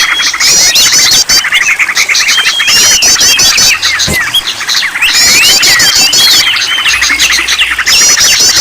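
Many songbirds calling over one another in a dense mixed chorus: quick runs of high repeated chirps come in bursts, over many short rising and falling calls. A lure recording made to set caged birds singing.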